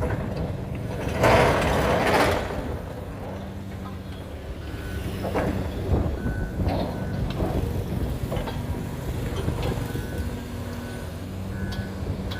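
A heavy construction machine's reversing alarm beeps repeatedly over its running engine, starting about four seconds in. A loud rushing hiss lasts about a second near the start.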